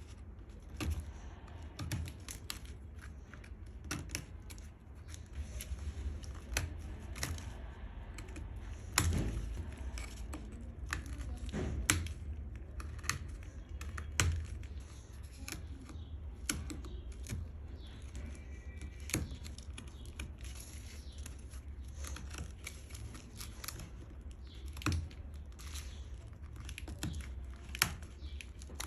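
Irregular light clicks and taps of hand work on a small piece of walnut wood, with a few louder knocks, over a steady low hum.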